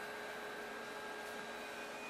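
Steady electrical hum and hiss from a passenger train standing at the platform, with several faint, steady whining tones over an even hiss.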